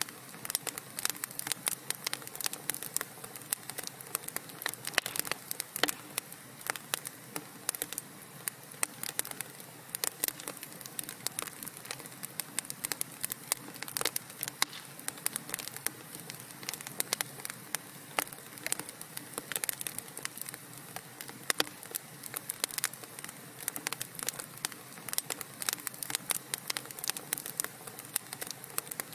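Wood fire crackling in a fireplace: dense, irregular pops and snaps over a soft steady hiss of burning.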